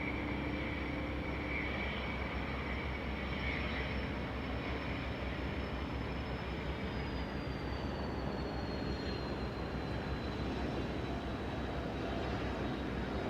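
Aircraft going by: a steady engine rush with a high whine that slides down in pitch about seven to ten seconds in as it passes.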